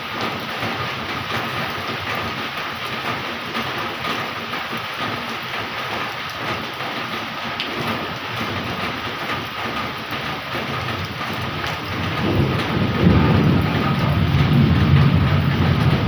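Heavy tropical rain pouring steadily. About three-quarters of the way through, a low rumble of thunder builds and grows louder.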